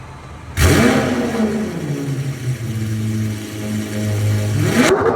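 Lamborghini Aventador SVJ 63 Roadster's 6.5-litre V12 cold-starting. It fires about half a second in, flares up loudly and settles over a couple of seconds into a steady fast idle. Near the end a quick rev rises sharply and drops away.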